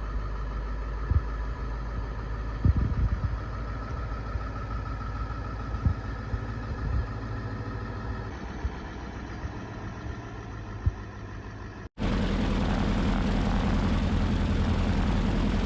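A Beech 18's radial engines running steadily at low power, with a few sharp knocks over the first part. About twelve seconds in, the sound cuts briefly and comes back louder and fuller, the engines still running steadily.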